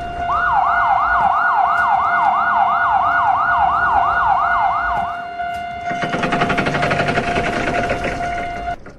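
Electronic siren sound effect in a fast yelp, about three rising-and-falling wails a second over a steady tone, which stops about five seconds in. Rapid rhythmic ringing then comes back and cuts off abruptly just before the end.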